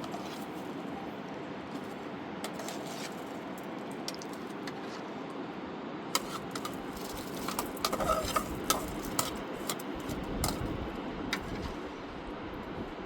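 Steady rush of running river water, with a cluster of sharp clicks and knocks from about six to eleven seconds in.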